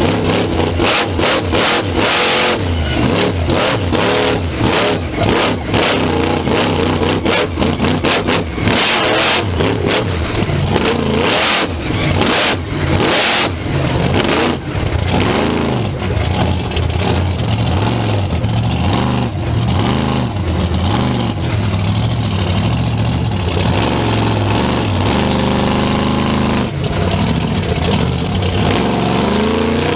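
A loud vehicle engine revving hard and accelerating, with sharp crackles through the first half. It then settles into steadier running that rises and falls in pitch.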